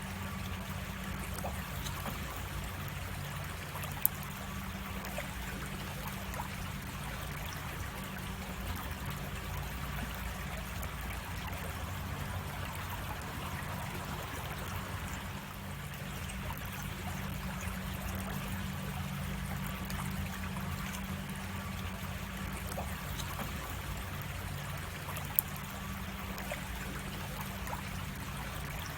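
A creek cascading over rocks, a steady rush and trickle of flowing water. Two brief sharp clicks stand out, one a few seconds in and one near the end.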